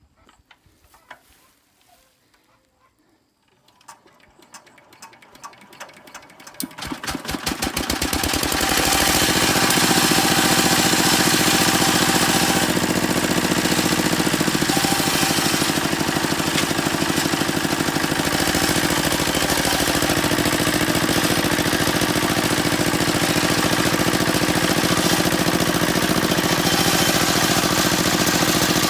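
A small engine starting up: a fast pulsing firing that quickens and grows louder over a few seconds, then settles into a loud steady run.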